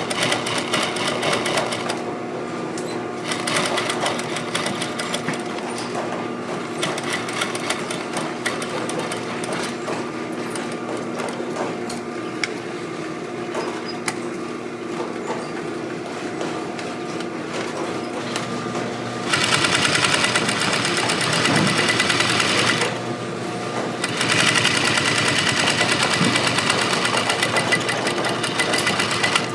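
Industrial sewing machine running steadily at a rapid stitch, with two louder, brighter stretches in the second half, the first about two-thirds of the way in.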